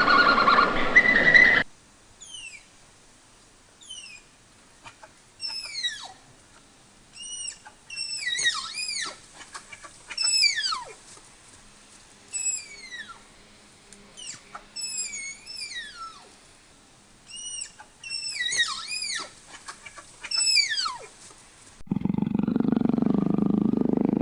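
Animal calls: a long series of short, high chirps that fall steeply in pitch, coming in clusters, followed near the end by a loud, low, rough call.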